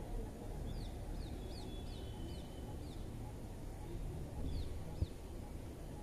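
Bird chirps: a quick series of short, high, falling calls, then two more a couple of seconds later, over a low steady background rumble. A single short knock comes about five seconds in.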